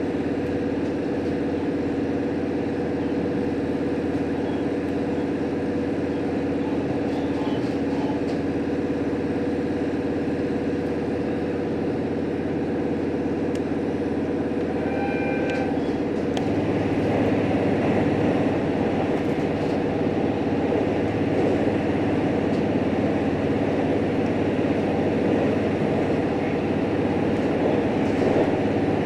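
Inside a JR Hokkaido H100 diesel-electric railcar under way: steady engine and running noise with a constant hum. About halfway through a deeper hum joins and it grows a little louder.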